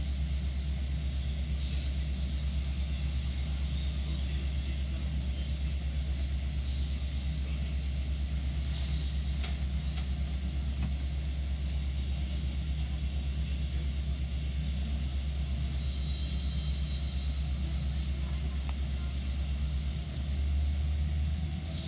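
Steady low rumble of a Metra diesel commuter train, heard from on board, with a brief shift in the rumble near the end.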